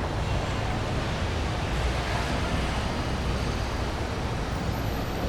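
Steady outdoor rushing noise with a heavy low rumble, even throughout, with no distinct events in it.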